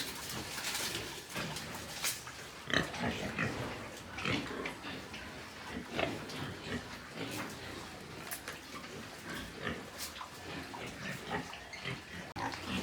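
Domestic pigs grunting, in many short, irregular grunts with no steady rhythm.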